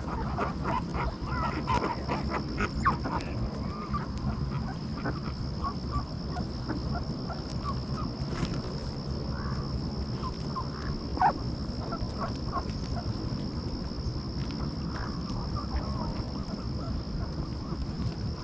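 A flock of ducks calling with short quacks, densest in the first three seconds and then scattered. A steady high tone runs underneath.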